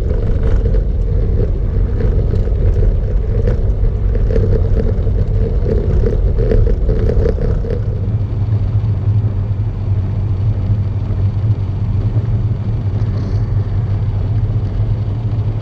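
Vehicle engine and road noise heard while driving, a steady low rumble. Short knocks and rattles come through during roughly the first half.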